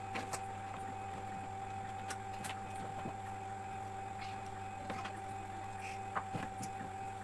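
Scattered light clicks and knocks of hands working on washing machine parts, over a steady background hum.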